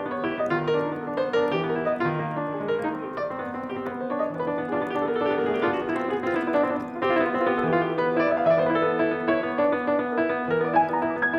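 Piano playing continuously: dense, overlapping notes and chords, with a low note struck again and again underneath.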